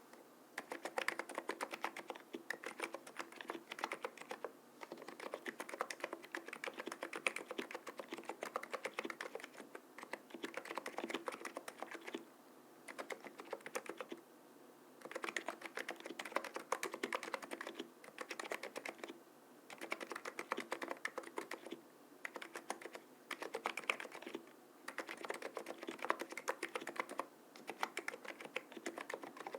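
Typing on a Cox CNK103 keyboard with Noppoo 50 g electrostatic capacitive switches, springs and stabilizers lubed: fast runs of keystrokes broken by brief pauses, with one longer pause a little under halfway.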